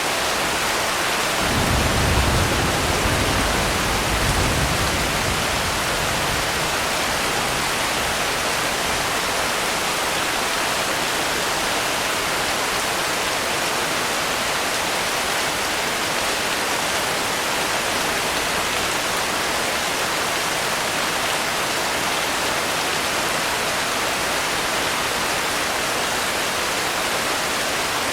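Steady, even rain hiss. A low rumble of distant thunder swells about a second and a half in and fades within a few seconds.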